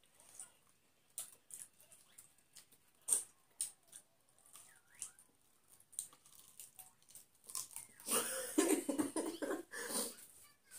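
People eating chicken and rice with their hands: scattered soft chewing and lip-smacking clicks, with a louder, busier stretch about eight seconds in.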